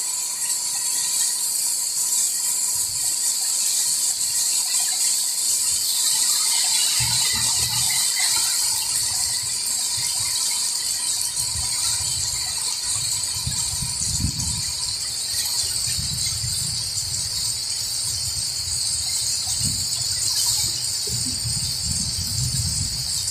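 Steady, high-pitched chorus of insects, crickets, running throughout, with irregular low rumbling starting about seven seconds in.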